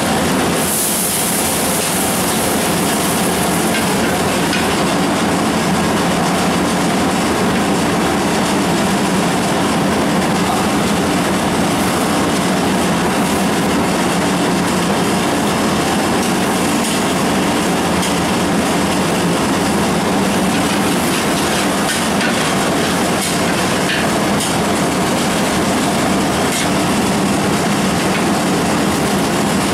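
Onions frying in oil in a large aluminium pot over a strong flame: a steady rushing, sizzling noise, with a few faint clicks from a long metal ladle stirring.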